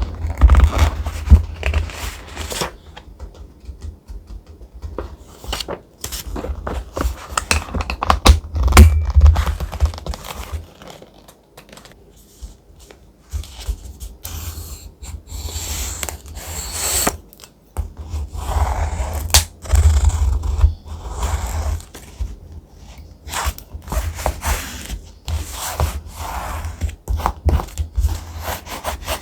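Thick paper being handled for a collage journal: rustling, rubbing and crinkling in irregular spells, with scattered sharp clicks and dull low thumps from handling on the desk. It goes quieter for a couple of seconds near the middle.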